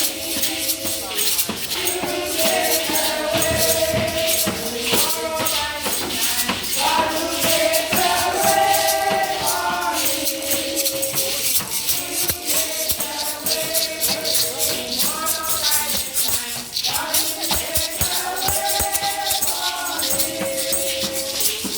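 A group of voices singing together in held phrases, accompanied by a shaker rattling out a fast, steady rhythm.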